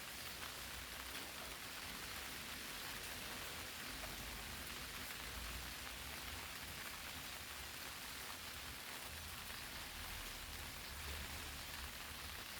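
Steady rain falling on eggplant leaves, a dense, even patter of many small drops.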